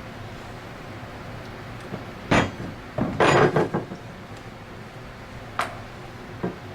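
Knocks and clinks of small parts and tools being handled and set down on a workbench: one knock, then a short louder clatter, then a sharp click and a smaller knock near the end.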